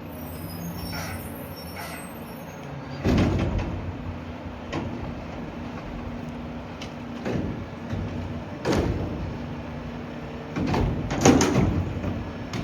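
Mack LR rear-loader garbage truck idling with a steady diesel hum, broken by about six loud bangs and clatters as trash bins and bags are dumped by hand into the rear hopper, the loudest near the end.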